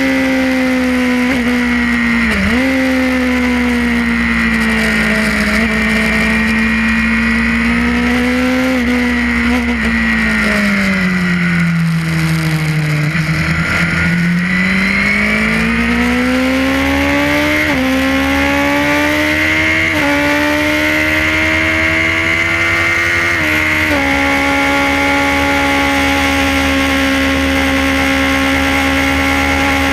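Suzuki GSX-R inline-four racing engine heard from on board at racing speed. It holds a high steady note, then the pitch falls away as the bike slows for a corner about ten to fourteen seconds in. It climbs again through three quick upshifts, each a sudden drop in pitch, before settling into a steady high-speed note.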